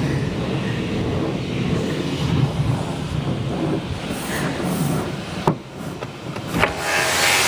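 Car wash machinery running with a steady rumble. Near the end a loud hiss of spraying water comes in.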